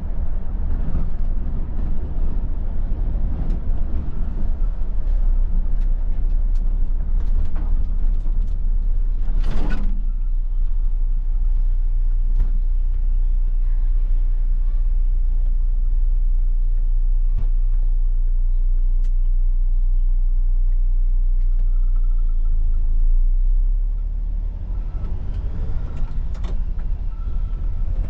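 Coach engine and road noise heard from inside the driver's cabin: a steady deep rumble while driving. A brief loud sound cuts through about ten seconds in, and the engine noise eases off a little near the end.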